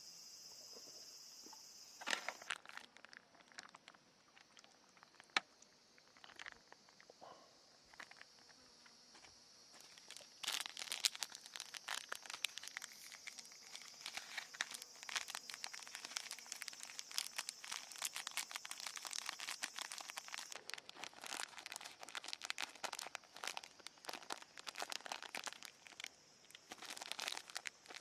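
Crinkling and rustling of something like a plastic bag or packaging being handled, sparse at first, then dense and continuous from about ten seconds in.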